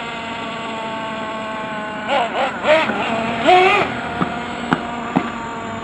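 Steady whine of an RC truck's motor. A voice calls out about two seconds in, and a few sharp clicks follow near the end.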